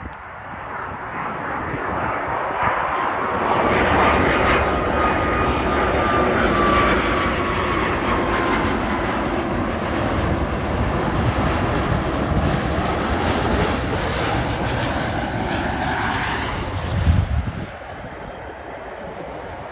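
Airbus Beluga transport jet passing on its landing approach. The engine noise swells over the first few seconds and stays loud with a whine that rises and then falls, before fading away. Near the end there is a brief low thump.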